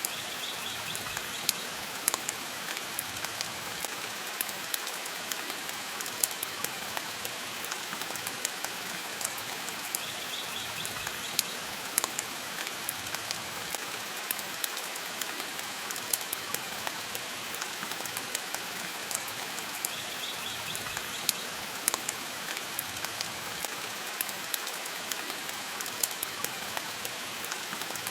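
Steady rain mixed with a crackling wood fire: an even hiss with frequent sharp pops.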